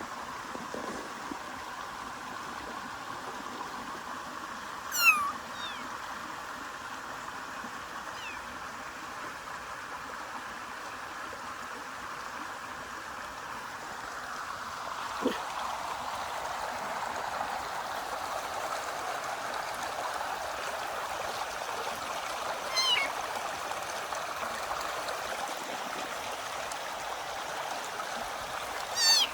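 A kitten meowing a few times in short, high-pitched, falling cries, the loudest about five seconds in. The meows sit over the steady rush of running water from a stream.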